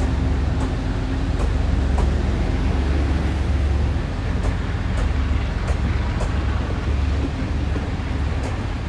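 Taiwan Railways passenger coaches of a departing locomotive-hauled train rolling slowly past, with a steady rumble and sharp clicks from the wheels over the rails every second or so.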